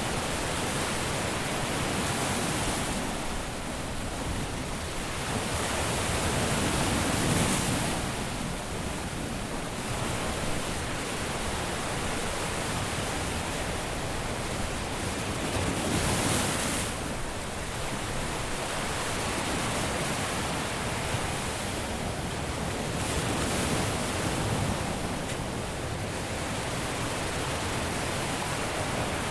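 Caribbean surf washing onto a beach, a steady hiss of water that swells as waves break every several seconds, loudest around 7 and 16 seconds in.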